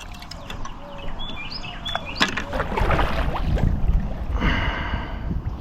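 A few short bird chirps, then a low rushing noise that grows louder after about two seconds, with scattered clicks.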